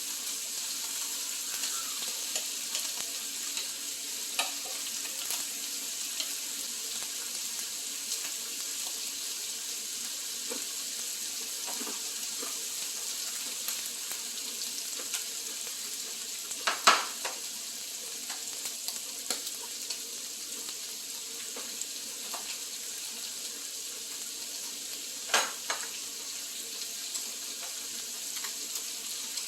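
Roast duck sizzling steadily on a grill, with a few sharp clicks, the loudest about halfway through and again near the end.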